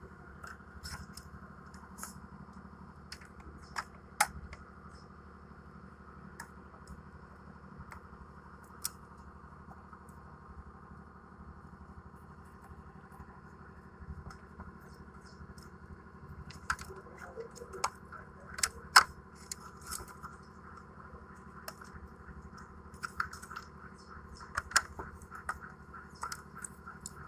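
Scattered sharp clicks, taps and light scrapes of hand tools and metal or plastic parts as an air conditioner indoor unit is taken apart, over a steady low hum. The clicks come thicker from a little past halfway, the loudest knock about two-thirds of the way in.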